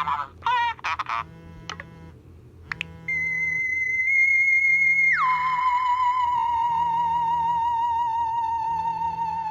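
An iPhone 3GS ringtone playing: a theremin-like electronic melody. After a few short tones, a held high note drops sharply about five seconds in to a lower wavering note that holds on, over a soft repeating low pulse.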